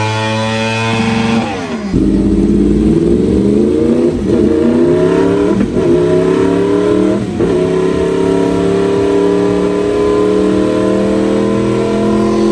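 A sport motorcycle engine accelerating hard through the gears: the note climbs, drops sharply with three quick upshifts, and then climbs long and steadily in the top gear.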